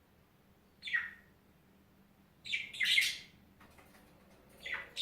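A bird chirping: four short, high calls with quiet gaps between them, the first sliding down in pitch.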